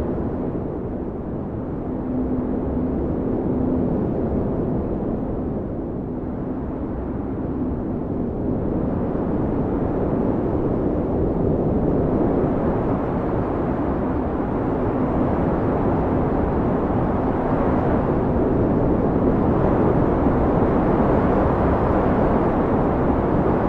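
Howling blizzard wind: a steady low rushing that swells and eases in slow gusts, with a faint held whistling note now and then.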